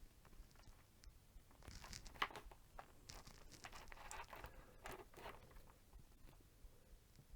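Faint scraping and crinkling of a small sharp knife cutting through thin headphone cable insulation, a cluster of short scrapes and clicks from about two to five and a half seconds in.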